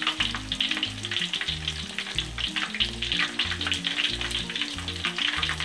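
Battered stuffed tofu frying in hot oil in a wok: a steady sizzle with constant crackles. Background music with a regular low beat plays underneath.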